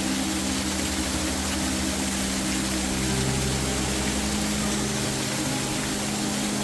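Steady rush of falling water, like a waterfall, over a held ambient music drone.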